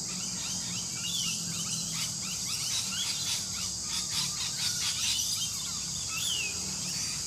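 Park birds calling and chirping over a steady high insect chorus, with several short sliding whistled calls standing out, and a faint low hum beneath.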